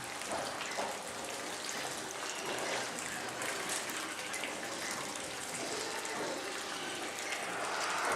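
Steady rush of running water with a few faint ticks.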